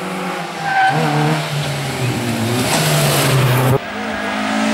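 Rally car engine revving hard and changing pitch as it drives a special stage. The sound cuts off suddenly about three quarters of the way through, and another engine rises in its place.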